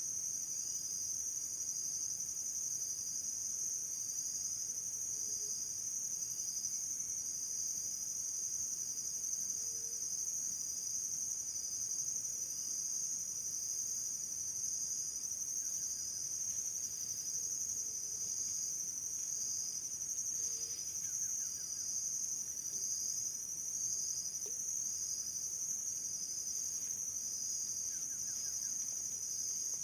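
Insect chorus: a steady high trill, with a second, lower trill pulsing about once a second.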